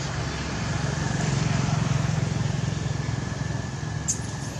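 A motor vehicle going by: a steady low rumble that swells about a second and a half in, then eases. A short sharp click comes near the end.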